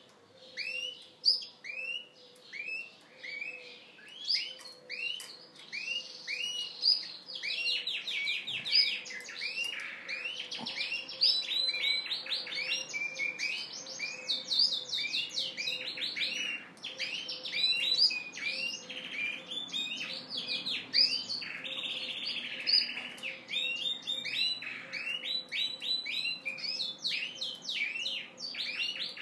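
Yorkshire canary cock singing its courtship song: a continuous run of repeated chirping notes and fast rolling trills. A faint steady hum lies underneath.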